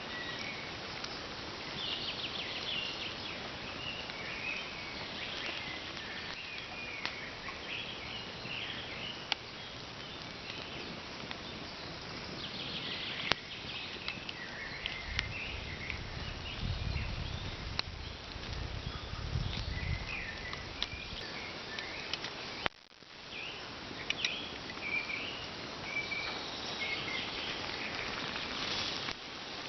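Birds chirping on and off over a steady outdoor hiss, with a low rumble for a few seconds in the middle and a few sharp clicks.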